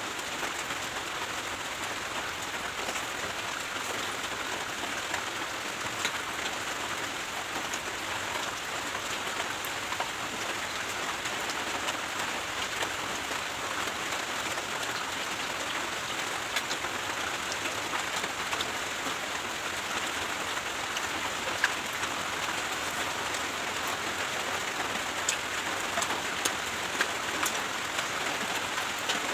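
Steady rain falling, with scattered sharper drop taps standing out, a few of them louder near the end.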